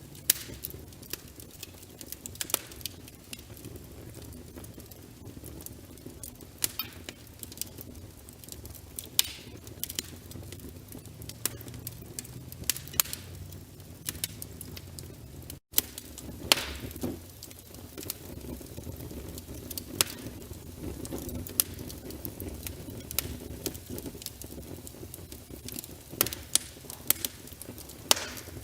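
Logs burning in a fireplace: a wood fire crackling with frequent, irregular sharp pops over a low, steady rumble of flame. The sound cuts out for an instant about sixteen seconds in.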